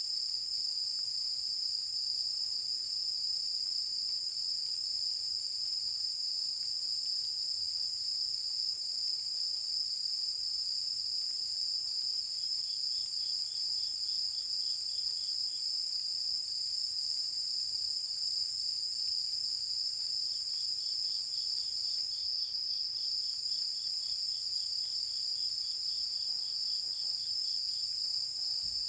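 A chorus of night insects calling: a steady, high shrill trill throughout, and a lower pulsed chirping, about three or four pulses a second, that comes in twice, for a few seconds near the middle and for longer towards the end.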